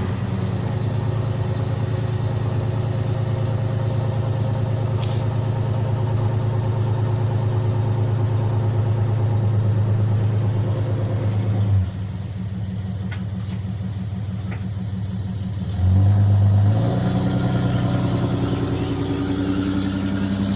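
Toyota Prado engine running through Pacemaker headers and a 2.5-inch custom exhaust, a steady exhaust note. It falls quieter about twelve seconds in, then comes back with a short louder surge about four seconds later and settles again.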